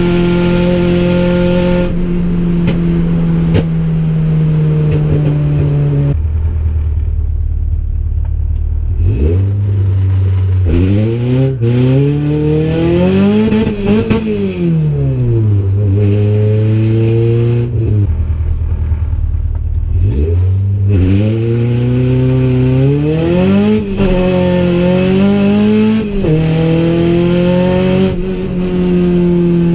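Honda B16 DOHC VTEC inline-four in a Civic EG hatchback, heard from inside the cabin. It cruises steadily, the revs drop about six seconds in, then it pulls hard with the engine note climbing until about fourteen seconds and falling away. A second pull follows from about twenty seconds, with the note rising again before it drops near the end.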